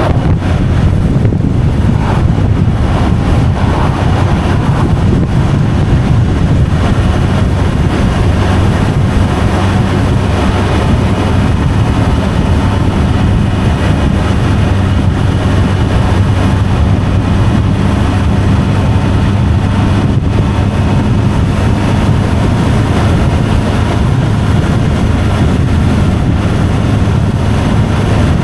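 Vehicle driving along a road: steady engine drone and road noise with no break.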